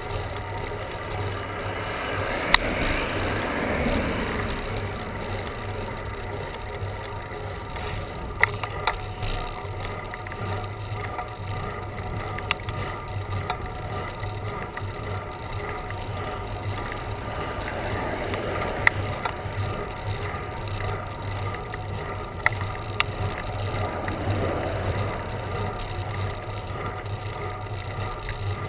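Bicycle being ridden: steady wind and road noise with occasional sharp clicks and rattles, and a few swells of wind that rise and fade.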